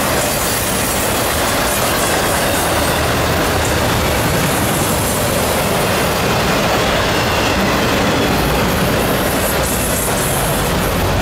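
Autorack freight cars rolling past close by: a loud, steady rumble and rattle of steel wheels on the rails. A faint high squeal comes in near the end.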